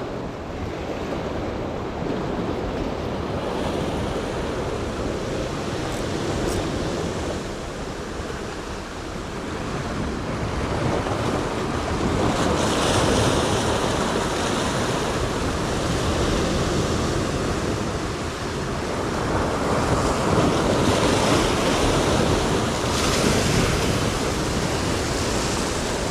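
Rough, swelling sea surf washing and breaking, with wind on the microphone; the surf swells louder twice, about halfway through and again near the end.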